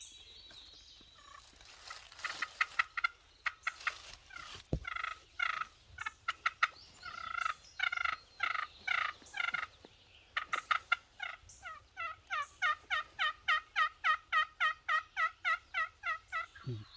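Wild turkey calling: scattered yelps and clucks, then a long even run of yelps, about four a second, lasting about six seconds.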